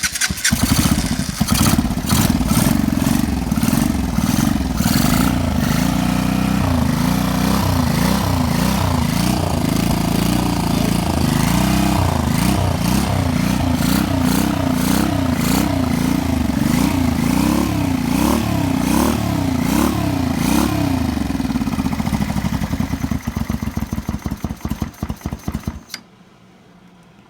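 Honda VT500 V-twin motorcycle engine starting and running through its exhaust pipes, revved up and down over and over. Near the end it falters unevenly and stops.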